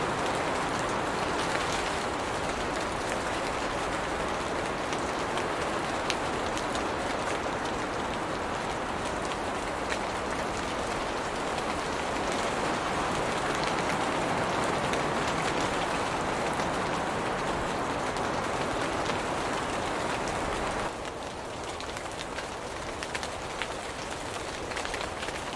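Steady rain falling on the leaves of a tree, an even hiss of rain with scattered single drops ticking through it. Near the end it drops suddenly to a softer level.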